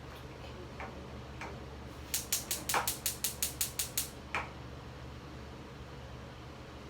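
Gas stove igniter clicking rapidly, about ten sharp clicks in two seconds before stopping, with a few softer knocks around them; the stove is not working.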